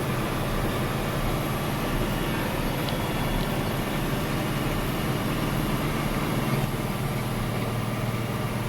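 Snowplow truck's engine running steadily under heavy load as the front plow pushes through deep snow drifts.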